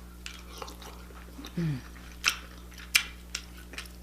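Close-miked chewing and mouth sounds of a person eating crab legs: a string of sharp wet clicks and smacks, the loudest about two and three seconds in, with a brief falling "mm" hum about one and a half seconds in.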